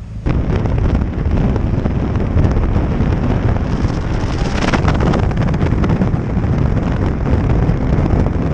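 Wind buffeting the microphone: a loud, steady noise that starts abruptly just after the start.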